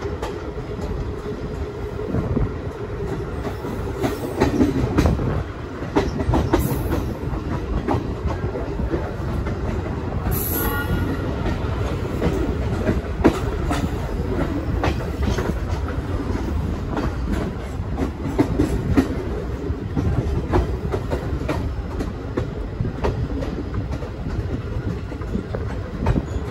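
A train running on the rails with a steady rumble, its wheels clicking and clacking over the rail joints.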